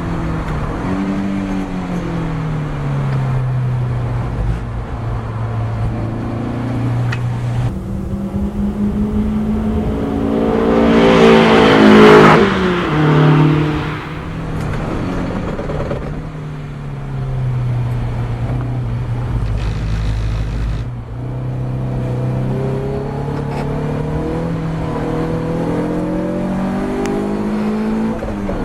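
Ginetta G40 race car engine revving, its pitch climbing and dropping repeatedly through gear changes, loudest about twelve seconds in.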